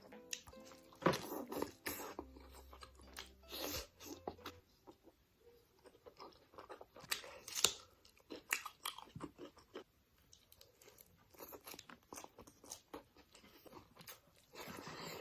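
Crunchy food being bitten and chewed close to the microphone: irregular sharp crunches, the loudest about a second in and around seven to eight seconds in.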